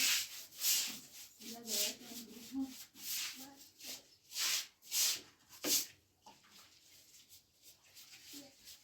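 Repeated rubbing or scraping strokes against a rough surface, about one or two a second, fading to fainter strokes in the last few seconds. Faint voices murmur in the first few seconds.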